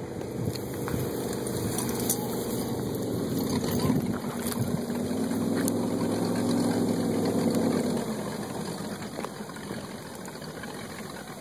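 Jet boat engine running as the boat goes by. It grows louder with a shift in pitch through the middle, then fades after about eight seconds.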